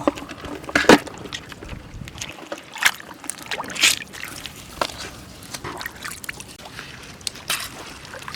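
Shallow water sloshing and splashing irregularly, as when someone wades and grabs through it, with the sharpest splashes about a second in and about four seconds in.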